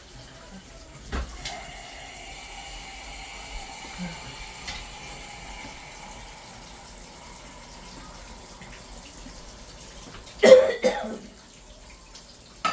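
Water running steadily from a kitchen tap, with a level whistling tone over the hiss for the first few seconds, after which it fades to a faint hiss. A loud cough comes near the end.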